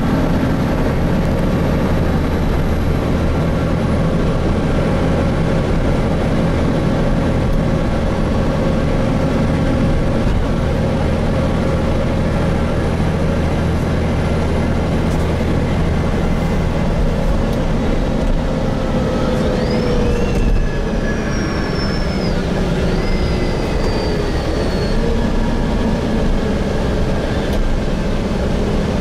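Interior of a Gillig Phantom transit bus with a Voith transmission under way: steady engine drone and road noise. About twenty seconds in, a whine rises in pitch and then slowly falls away over several seconds.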